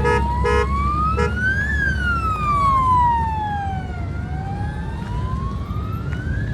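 Emergency-vehicle siren sounding a slow wail, rising and falling in pitch about once every five seconds, over a steady low rumble of traffic. A few short tooting notes sound in the first second or so.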